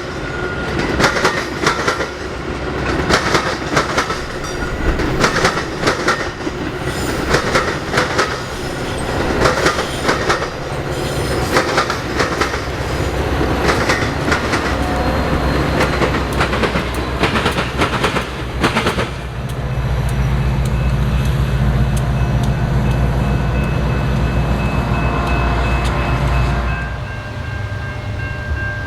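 Passing train with its wheels clattering and knocking over the rail joints. About two-thirds of the way through, the clatter gives way to a steady low diesel-locomotive rumble, which drops off near the end.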